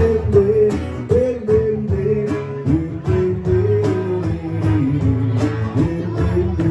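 Acoustic guitar strummed in a steady rhythm, with a wavering melody line carried over it between sung verses.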